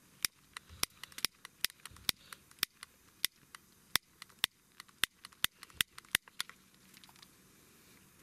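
A lighter being clicked over and over at the firework's fuse, sharp single clicks at uneven spacing, about two a second, while it fails to light.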